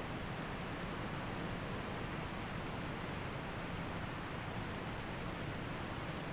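Waterfall rushing: an unbroken, even hiss and rumble of falling water.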